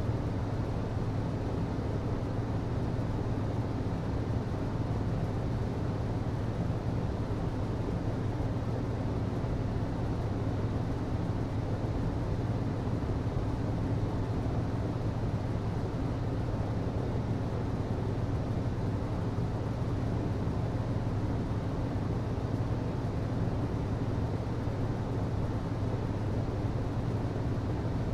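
An HVAC unit running with a steady, unchanging low hum under an even rush of noise.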